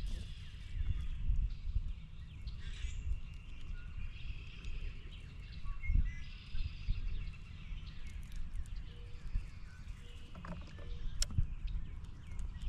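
Wild birds chirping and calling over a steady low rumble of outdoor noise, with one sharp click near the end.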